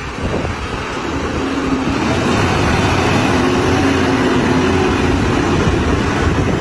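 Heavily loaded truck's engine running steadily under a loud, even rushing noise.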